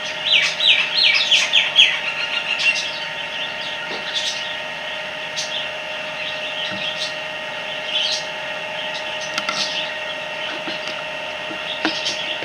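A bird chirping a quick run of about six falling notes in the first two seconds, then scattered short clicks over a steady background tone.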